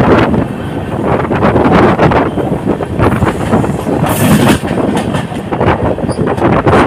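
Train running at speed, heard from on board: a steady rumble of wheels on the rails with rapid clattering over the track, and a brief high-pitched hiss about four seconds in.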